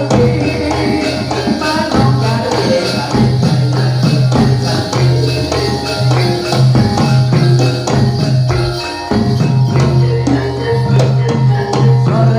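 Javanese jathilan (kuda lumping) music played live: rapid drum and jingling percussion strokes over a pitched metallic melody. A strong low bass note is held and re-struck throughout.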